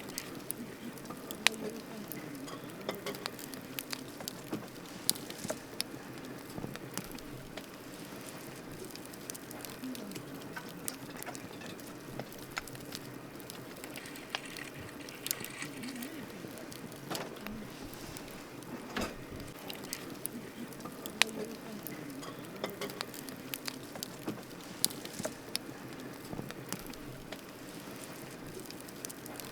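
Wood campfire burning: irregular sharp crackles and pops over a steady low rush of flame.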